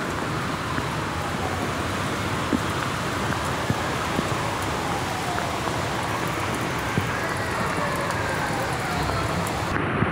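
Heavy rain and rushing floodwater making a steady, even rushing noise, with a few faint tones sliding downward through the middle.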